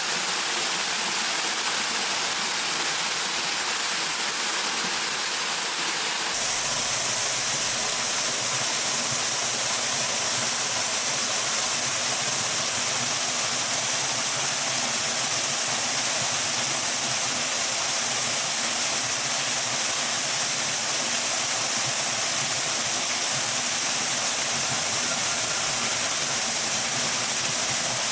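Waterfall rushing, a steady loud wash of falling water; about six seconds in its tone changes abruptly, with less hiss up high and more low rumble.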